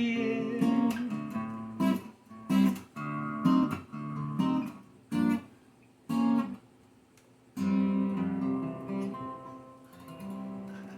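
Acoustic guitar playing the song's closing chords: a few short strummed chords, each cut off quickly, then a last chord struck about seven and a half seconds in and left to ring and fade.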